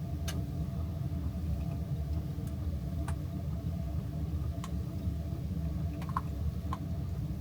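A steady low mechanical hum with faint steady tones above it, and a few faint clicks scattered through it.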